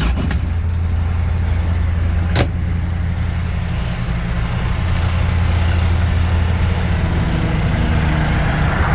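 Semi truck's diesel engine idling steadily, supplying the jump for a dead reefer battery, with one sharp click about two and a half seconds in.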